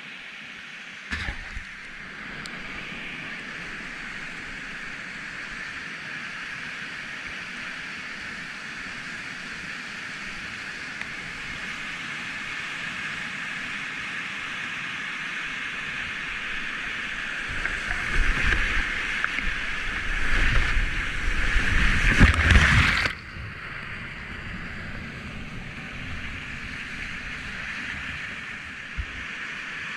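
Whitewater rapids rushing in a steady hiss, with a brief knock just over a second in. The rush grows louder and turns into heavy splashing and rumbling, then drops off suddenly about 23 seconds in.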